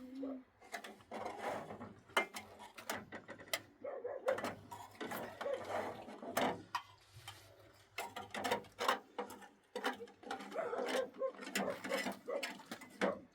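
A run of irregular sharp clicks and light knocks, as of small objects being handled.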